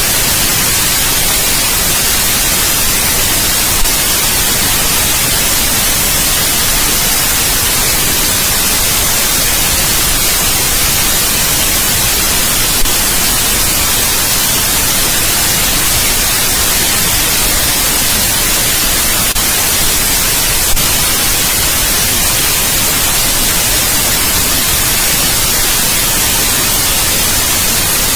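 Steady white noise: an even, unchanging hiss across the whole range, sounding brightest in the highs, with a few faint clicks now and then.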